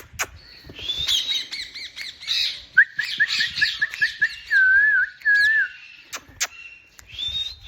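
Pet parrot calling: chirps and squawks, then about three seconds in a quick run of repeated notes followed by a wavering whistle.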